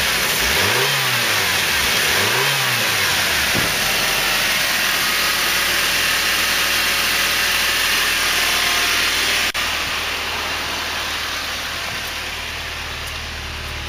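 Toyota 3RZ-FE 2.7-litre inline-four engine being blipped twice, the revs rising and falling each time, then settling to steady running. A sharp click about nine and a half seconds in, after which it runs a little quieter.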